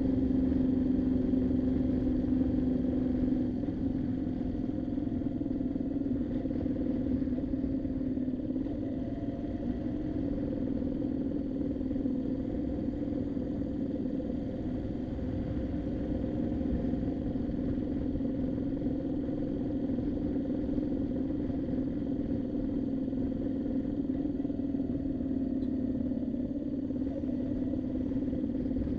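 Twin-cylinder motorcycle engine under way on the road, easing off a few seconds in and then holding a steady cruise.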